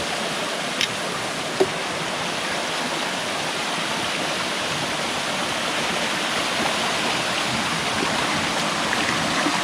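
Steady rush of a stream tumbling over a small waterfall, with a couple of faint clicks in the first two seconds.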